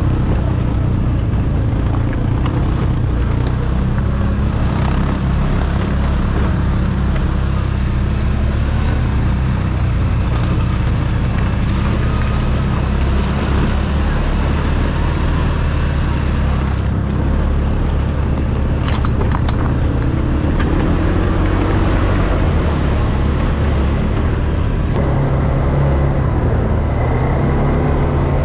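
ATV engine running under way, steady and loud, its pitch shifting a few times as the throttle changes, with a change in the sound about three-quarters of the way through.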